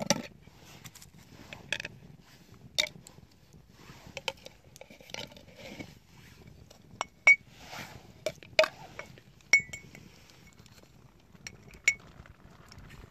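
Scattered light clinks and knocks of hard objects being handled, irregularly spaced, a few with a brief ringing tone like utensils or dishes.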